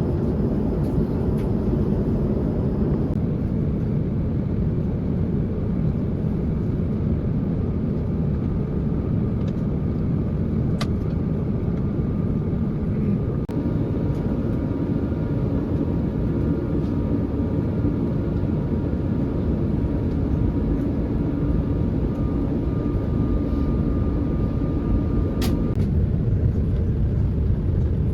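Steady roar of an Airbus A350 airliner's cabin in flight on descent: engine and airflow noise. A faint steady tone joins about halfway, and there are two light clicks, one near the middle and one near the end.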